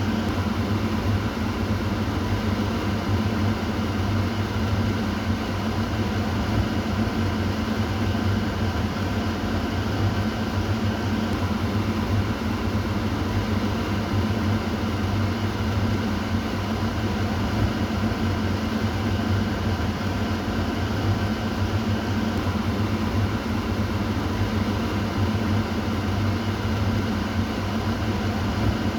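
Kitchen exhaust fan running steadily: an even whoosh of moving air over a constant low motor hum.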